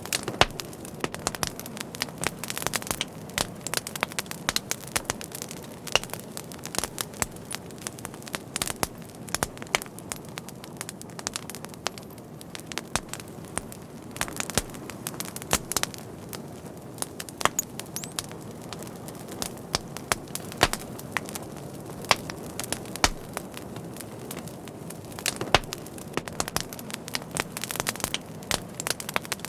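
Wood fire crackling: irregular sharp pops and snaps over a steady low rumble of burning, with thicker clusters of pops from about 1 to 4 seconds in, again around the middle and near the end.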